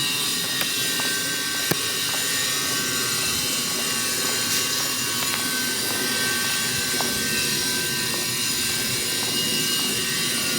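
Steady mechanical hum and hiss, like a vehicle running, with a few light clicks.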